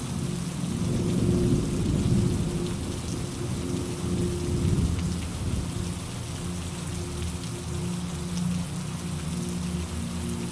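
Steady rain falling, with a low rumble of thunder that swells and fades over the first half.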